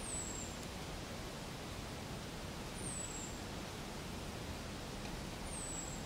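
Steady outdoor hiss with a bird's high, thin call gliding down in pitch three times, about three seconds apart.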